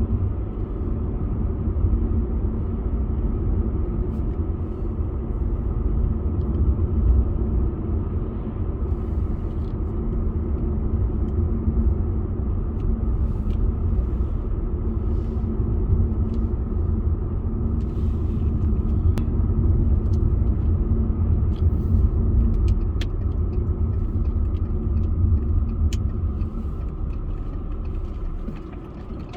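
A car driving along a road: a steady low rumble of tyres and engine, easing slightly near the end.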